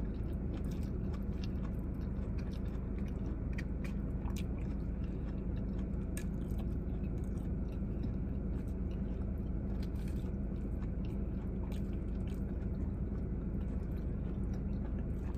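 Close-up chewing and biting of a forkful from a Chipotle bowl of chicken, lettuce, fajita vegetables and beans, with many small, short clicks throughout, over a steady low hum.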